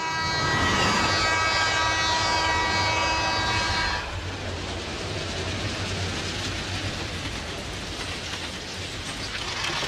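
Passenger train's horn sounding steadily for about four seconds over the rumble of the train, then cutting off and leaving the steady rumble and rattle of the train running along the track.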